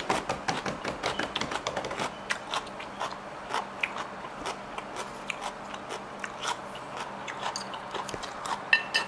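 A person chewing crunchy food close to the microphone: a steady run of crisp crunches, busiest in the first few seconds.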